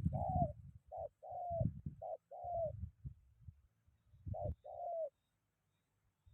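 Spotted dove cooing: four phrases, each a short note followed by a longer note that falls slightly, with a pause before the last. A low rumble of strong wind on the microphone runs under the calls.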